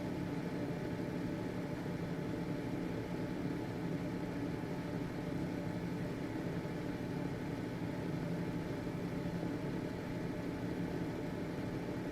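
Household ventilation fan running, a steady motor hum with a low whir of air.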